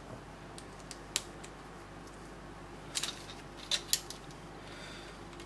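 Plastic LEGO bricks and pieces clicking and knocking as they are handled and pressed together, a few sharp clicks about a second in and a cluster of clicks around three to four seconds, over a low steady hum.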